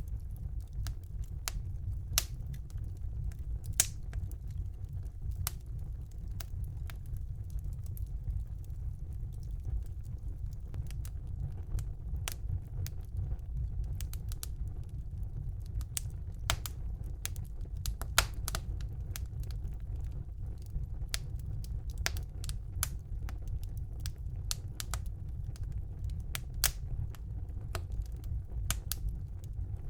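Wood fire burning in a fireplace: a steady low rumble of the flames with irregular crackles and sharp pops, a few louder pops standing out.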